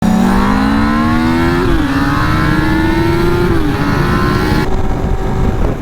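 A vehicle engine accelerating hard through the gears, loud. Its pitch climbs, drops at a gear change about a second and a half in, climbs again, and shifts once more midway.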